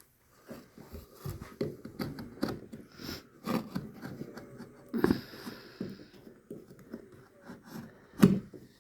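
Irregular knocking and scraping of a hand tool working on peeling wood veneer, many short strokes at uneven intervals with a brief hiss about halfway through.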